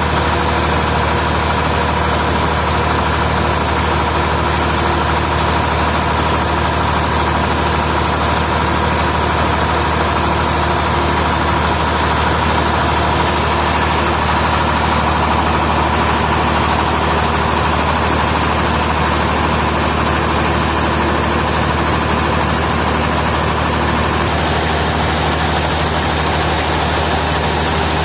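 Sawmill machinery running steadily: a loud, constant hum with a high whine that drops out near the end.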